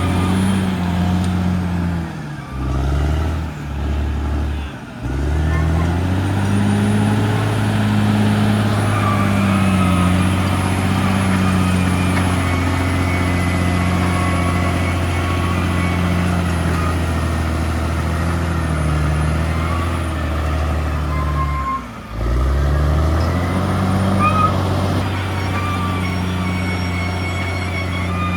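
CAT D6R XL crawler bulldozer's diesel engine running under load. Its pitch sags and recovers a few times, briefly twice near the start and once about three quarters of the way through.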